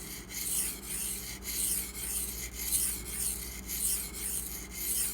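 D2 steel knife blade being stroked back and forth on a 600-grit Pride Abrasive stone, a gritty scraping in an even rhythm of just under two strokes a second. The stone is friable and releases grit as it cuts.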